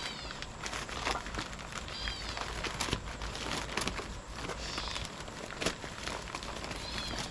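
A cat mewing three times, short high arched mews spaced a few seconds apart, over a continuous run of light clicks and crinkling.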